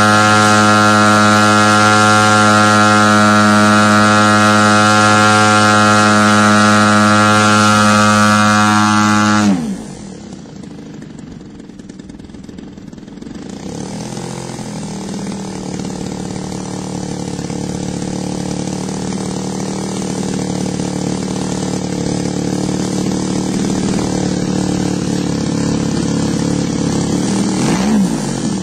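RC model airplane engine running steadily at full throttle, then throttled back about nine and a half seconds in, its pitch dropping sharply to a low idle. It idles, slowly growing louder, with a brief rev near the end. The drop to idle is the pause for a high-end needle adjustment while tuning the carburettor.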